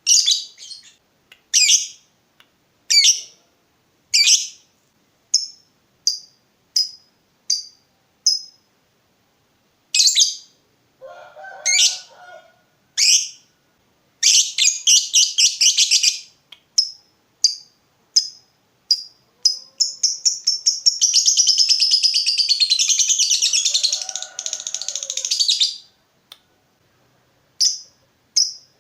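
Lovebird calling: sharp, high chirps about once a second, broken by bursts of rapid chatter, then one long unbroken trill lasting about six seconds (the 'ngekek' prized in a bird in full song).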